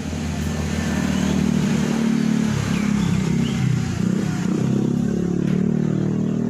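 Honda Supra X motorcycle engine running through its newly replaced exhaust header pipe, its pitch rising and falling in the middle as the throttle is blipped.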